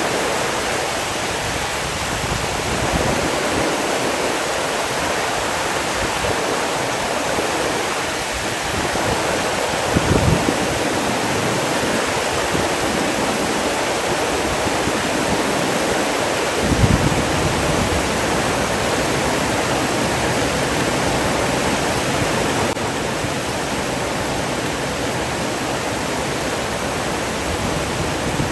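Steady rush of flowing water, like a waterfall or fast stream, with two brief low thuds about a third and about two thirds of the way through.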